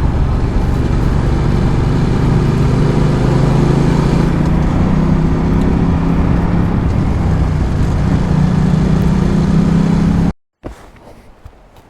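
Ducati Multistrada 1200's twin-cylinder engine running under way, with road and wind noise; the engine note climbs a little partway through. The sound cuts off abruptly near the end, leaving only faint sound.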